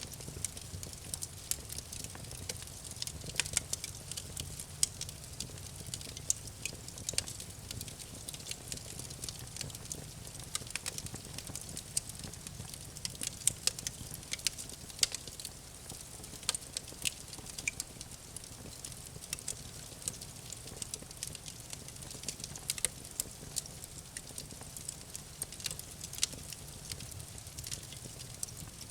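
Campfire crackling: burning wood snaps and pops in quick, irregular clicks over a low steady rumble of the flames.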